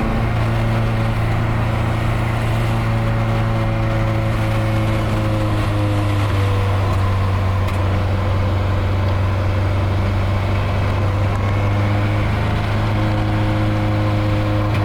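Nissan 240SX engine and leaking exhaust droning steadily as the car cruises, heard from the cabin. The exhaust has a hole blown in it. The pitch eases slightly in the middle and rises again near the end.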